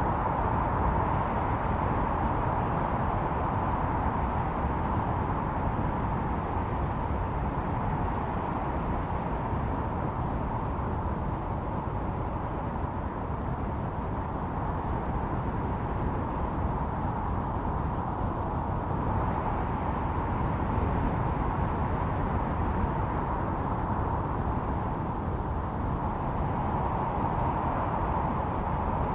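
Blizzard wind howling steadily, with a hollow whistling tone that swells in slow gusts a few times and then eases again.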